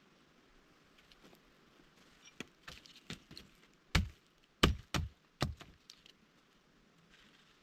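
A hand tool striking wood: a run of about ten irregular knocks and chops, the heaviest four coming close together in the middle.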